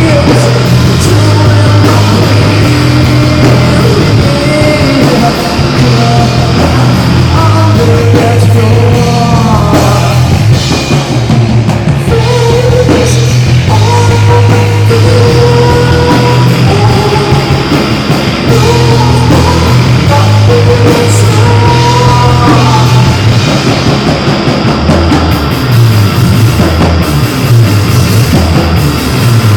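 A live rock band playing loud, dense music, with a heavy bass line, drums and guitar.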